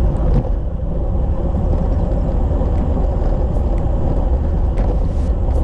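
Wind buffeting the microphone of a road bike rider moving at speed: a loud, steady low rumble.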